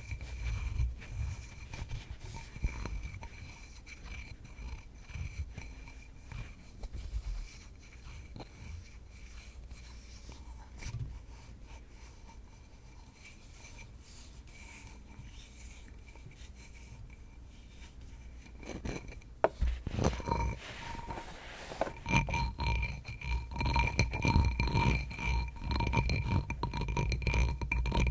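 Tapping and light scratching on a hard object that rings faintly behind the taps. The taps are soft and sparse at first. About two-thirds of the way through they become louder and denser.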